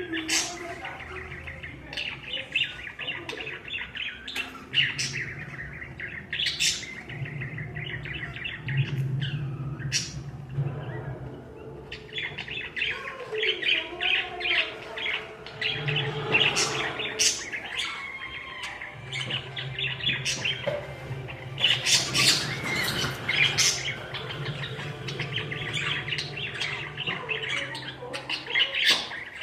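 A group of pet budgerigars chattering and warbling continuously, with frequent sharp high chirps and squawks.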